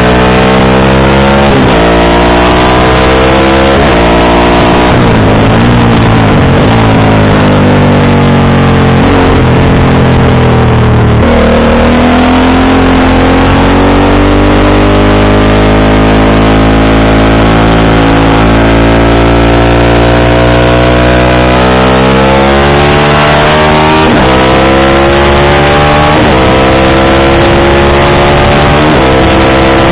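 Motorcycle engine and exhaust running loud under way. The engine note falls over the first ten seconds, changes abruptly about eleven seconds in, holds fairly steady, then climbs again near the end.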